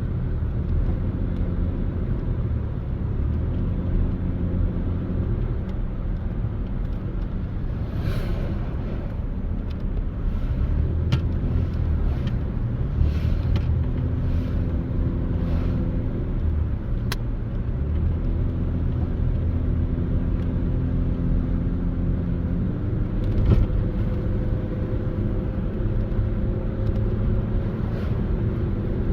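Car driving on a mountain road: steady engine hum and road rumble, with the engine note shifting a few times and stepping up about two-thirds of the way through, and a few light clicks or knocks scattered through.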